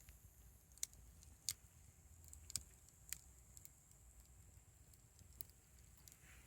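Wood campfire crackling faintly, with irregular sharp pops and ticks over a low steady rumble of the burning fire.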